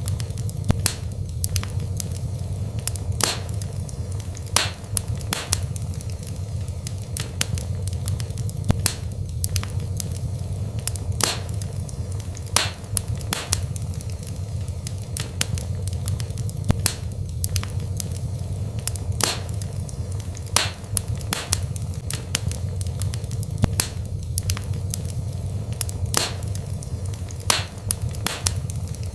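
Wood fire burning, with frequent sharp crackles and pops, irregularly spaced, over a steady low rumble.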